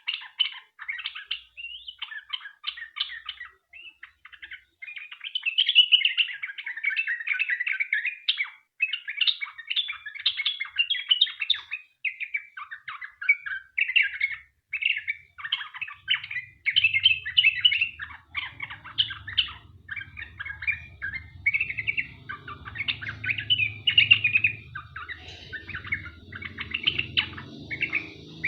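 Sooty-headed bulbul (trucukan) singing a long, unbroken run of quick chattering, warbling phrases. About halfway through a faint low hum joins underneath.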